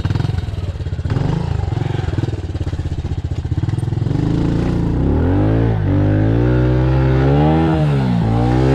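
Pit bike engine running, slow and loping at first. From about halfway through, its pitch repeatedly climbs and drops as the throttle is opened and eased off while riding.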